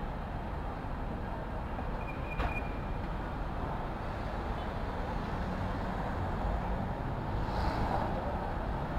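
City street traffic ambience: a steady rumble of passing vehicles. About two and a half seconds in comes a sharp click with a brief high squeak, and near the end a short swell of hiss.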